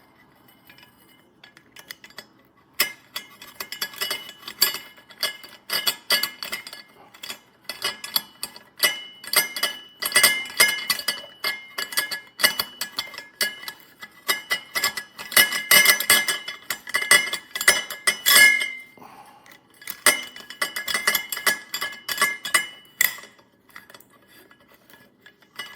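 Stainless steel French press plunger parts (rod, nut and mesh filter screens) clinking and scraping against each other as they are handled and screwed together: rapid metallic clicks with a light ringing, with a short lull about two-thirds through. The filter assembly is being tightened on the rod, where it does not secure and pulls off.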